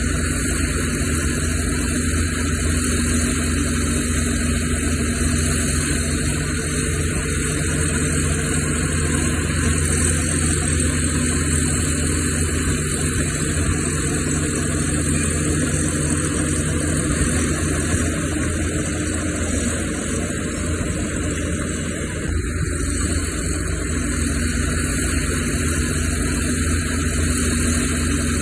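Diesel engines of heavy earthmoving machinery running steadily, a low continuous drone with no sharp knocks or clanks. A steady hum in it fades out midway and returns near the end.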